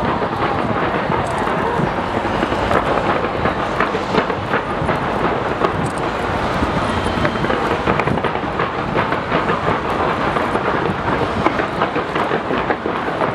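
Fireworks bursting in rapid, continuous succession: a dense rolling rumble full of quick bangs and crackles.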